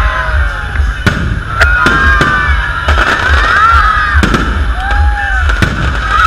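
Aerial fireworks display: shells bursting with sharp bangs every half second to second, over a continuous low rumble, with whistles gliding up and down in pitch between the bangs.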